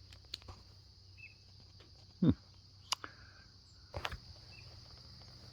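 Steady high-pitched drone of insects such as crickets or cicadas. A short, loud falling sound comes about two seconds in, followed by a few sharp clicks and knocks.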